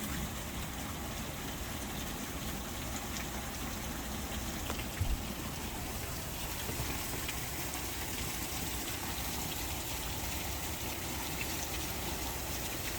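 Heavy rain falling steadily, an even hiss of water without a break.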